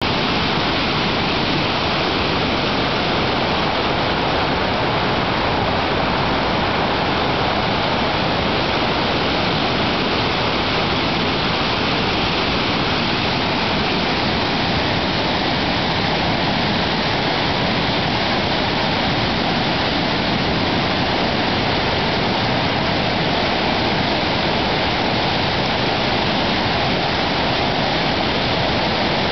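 Flooded mountain stream rushing, running almost at the crest after days of rain and sleet. A loud, steady rush of fast water with no breaks.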